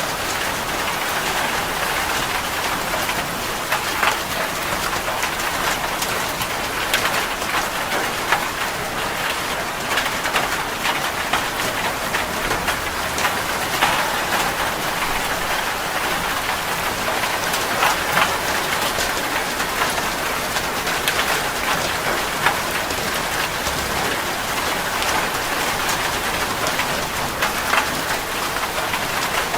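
Heavy rain drumming steadily on a metal roof, a dense hiss with many sharp, separate drop impacts.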